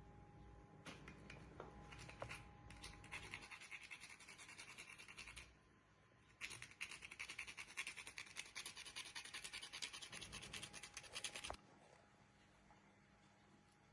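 Rapid, regular scratching strokes of a kitchen utensil, in two runs: a short one, then after a brief pause a longer one of about five seconds, over a faint steady hum.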